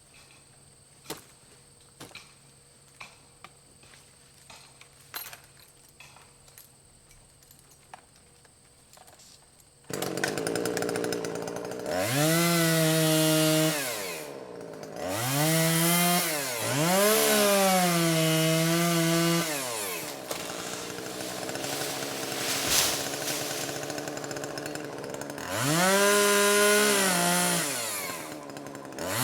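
Faint scattered clicks for the first ten seconds, then a chainsaw starts about ten seconds in. It is run up to full revs in three long bursts, dropping back toward idle between them and rising again at the end.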